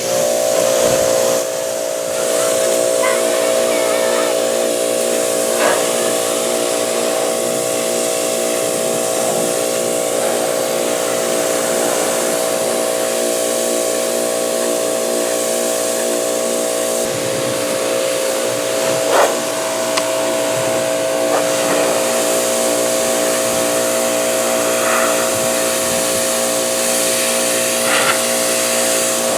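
Pressure washer running: a steady motor hum under the hiss of the water jet spraying down wooden bee hive boxes. It starts suddenly and holds steady, with a few brief changes as the spray moves.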